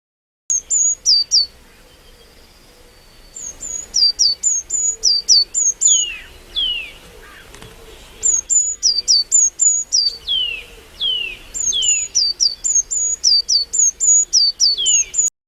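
Bird calling: quick runs of short, high, sharp chirps, each dropping steeply in pitch, mixed with longer downward-sliding whistles, with a short lull early on. The sound cuts in and cuts off abruptly.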